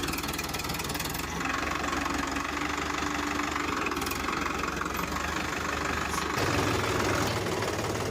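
Tractor engine running steadily; its low note steps up a little about six seconds in.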